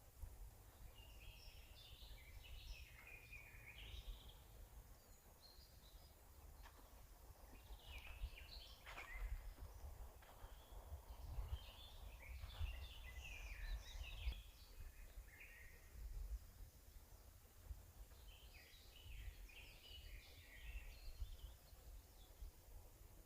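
Forest songbirds singing faintly in four bursts of quick twittering phrases, over a steady low rumble.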